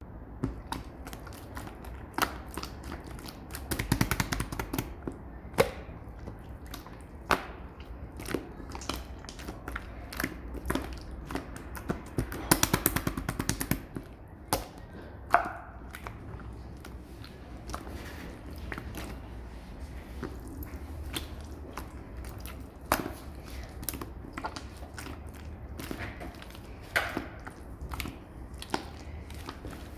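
Clear slime full of trapped air bubbles being pressed and poked by hand: sticky clicks and pops, with bursts of rapid crackling about four seconds in and again around twelve to fourteen seconds.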